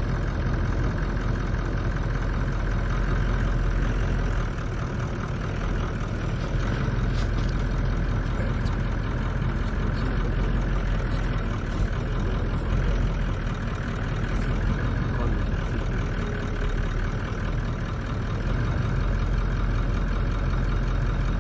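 A vehicle's engine idling steadily, a low even rumble.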